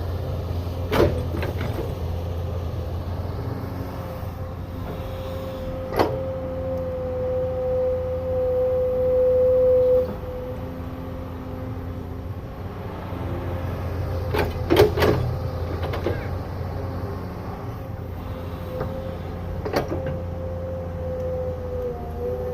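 Excavator working: its diesel engine runs with a steady low rumble under a steady whine that grows louder for a few seconds about a third of the way in. Sharp knocks come several times, two close together about two-thirds of the way in.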